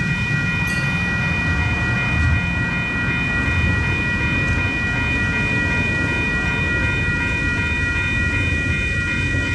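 Passenger cars of a train rolling past, with a steady rumble of wheels on rail. A steady high-pitched whine rings over it.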